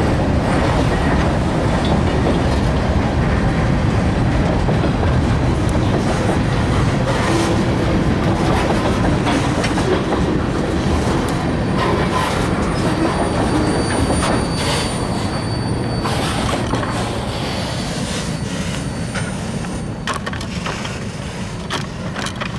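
Freight train boxcars rolling past close by, a steady heavy rumble of wheels on the rails, with a faint high wheel squeal in the second half. About two-thirds of the way in the rumble begins to fade as the end of the train passes and pulls away.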